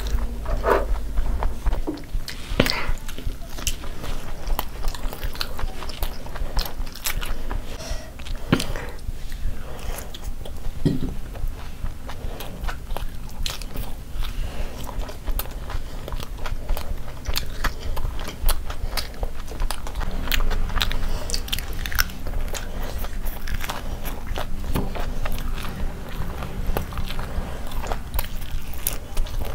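Two people eating close to the microphone: chewing and biting into fried food and tandoori momos, with many small sharp crackles and crunches.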